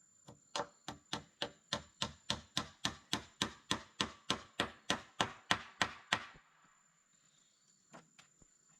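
A rapid, even run of about twenty chopping strikes at nearly four a second, stopping about six seconds in, followed by a few faint knocks near the end. A thin, steady high insect drone runs underneath.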